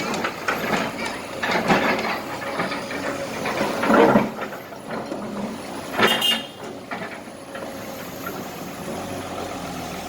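Kobelco SK200 excavator's diesel engine running under load while broken asphalt and small rocks clatter and scrape in its bucket and into a truck bed, with irregular crashes, the loudest about four and six seconds in.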